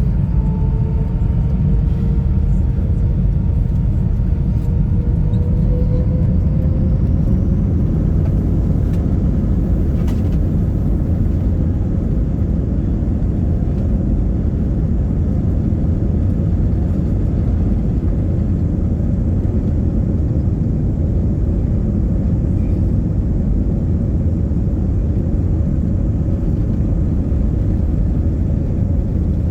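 Airbus A320 jet engines at departure thrust: a loud, steady deep rumble, with a whine that rises in pitch over the first several seconds and then holds steady.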